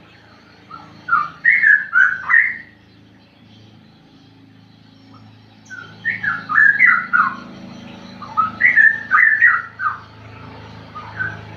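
A young straw-headed bulbul (cucak rowo), under five months old and still learning its song, singing three bursts of short, quickly gliding whistled notes with pauses between them, then a few single notes near the end.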